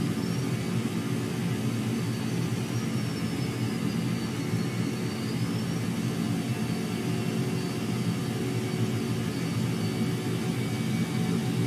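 Jet aircraft engine noise: a steady rumble with a thin high whine that falls and then rises again in pitch.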